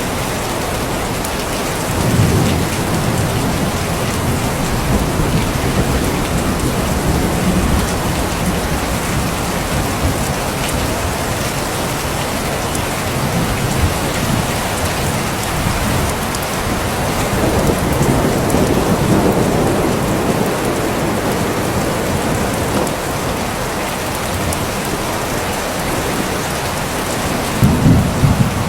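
Steady rain falling, with low rolls of thunder: one about two seconds in, a longer rumble past the middle, and another near the end.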